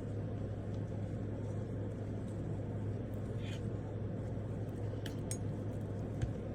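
Steady low background hum and rumble, with a few faint clicks and light rustles of small items being handled.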